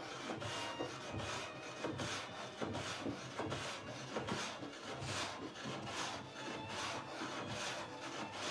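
Wooden door panel being worked by hand with an abrasive, in steady back-and-forth strokes about two a second, each a rough scratchy rub: sanding the surface down to bring out the low spots.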